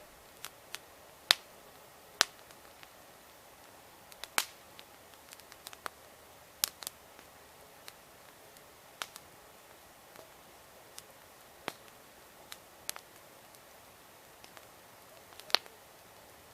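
Wood bonfire crackling: irregular sharp pops and snaps, a few louder cracks among them, over a faint steady hiss.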